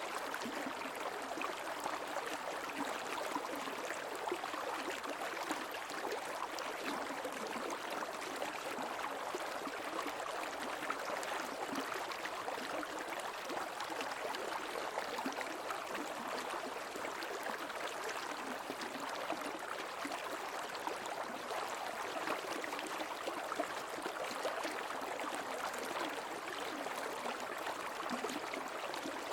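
Creek water flowing, a steady, even rush of running water with no breaks.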